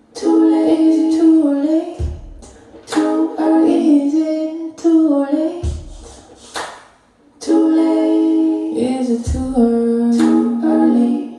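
Recorded music played on B&W 805 D2 loudspeakers in a room: gliding melodic parts over a deep low thump that comes about every three and a half seconds.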